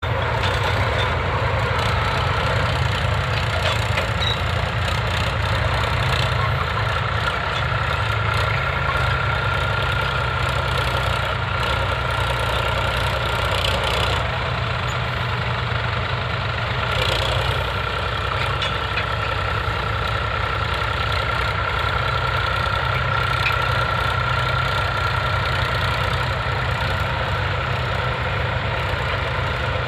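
A vehicle engine runs steadily at an even, unchanging speed, with a thin steady whine above the low rumble.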